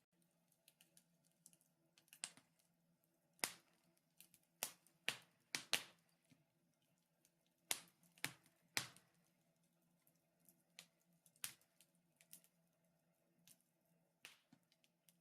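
Wood fire in a fireplace crackling: irregular sharp pops and snaps, some louder than others, a dozen or so spread unevenly, over a very faint steady hum.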